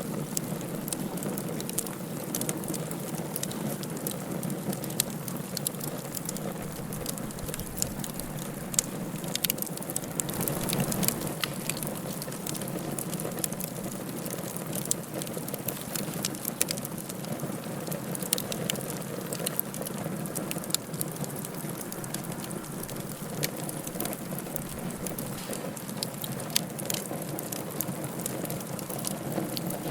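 Wood fire burning in a fireplace, crackling with frequent sharp pops over a steady low rush.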